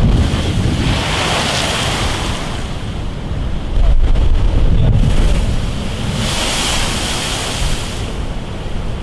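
Rough sea in a storm: waves surging and breaking with a loud hiss that swells twice, under strong wind buffeting the microphone with a heavy low rumble.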